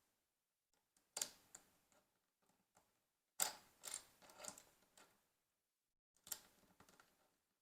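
Plastic LEGO bricks clicking and rattling as pieces are handled and pressed together, in three short bursts of sharp clicks with pauses between.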